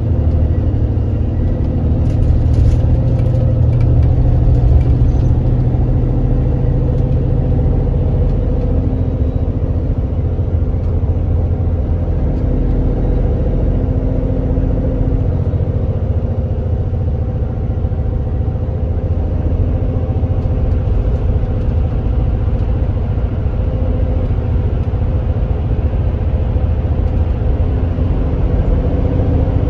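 Kia Granbird Sunshine coach's diesel engine running under way: a steady low drone with a slight swell a few seconds in.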